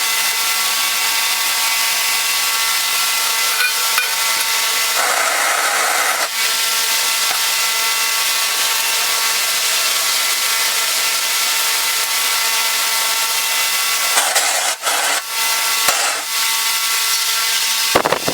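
A power tool running steadily, with a continuous gritty hiss over a steady whine, as it abrades the metal of a vintage pipe vise. The hiss gets brighter for about a second near the middle, and the sound breaks up into choppy scraping near the end.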